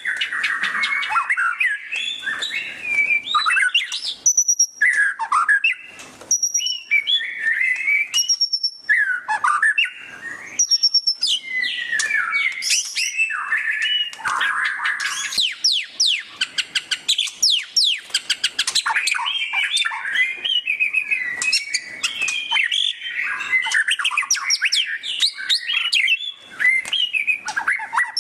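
White-rumped shama (murai batu) singing loudly and without a break. Varied whistled phrases and slurred glides alternate with fast, rapid-fire chattering trills, the 'ngeriwik' style, most densely about halfway through.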